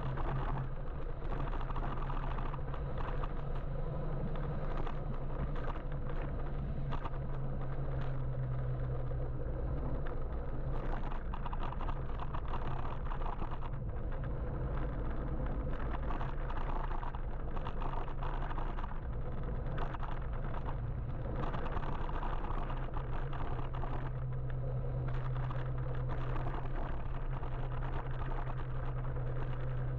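Steady low rumble of road and wind noise from an electric motorbike riding through city traffic, with a constant low hum and irregular swells from passing vehicles.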